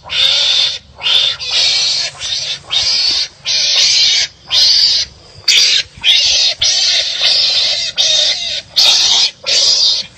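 Harsh, raspy animal calls repeated about once a second, about a dozen in a row with short gaps, like animals barking back and forth at each other.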